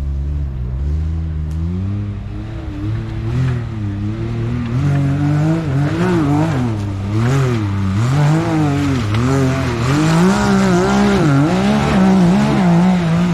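Side-by-side UTV engine revving up and down over and over, its pitch rising and falling roughly once a second and getting louder after the first few seconds, as the throttle is worked on a hill climb.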